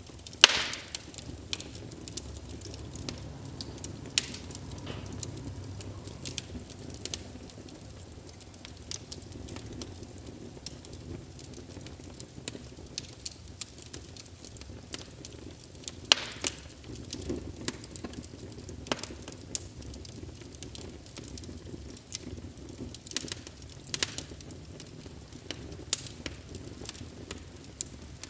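Wood fire burning in a fireplace: a steady low rush of flames with irregular sharp crackles and pops. The loudest pop comes just at the start, with other strong ones about halfway through and near the end.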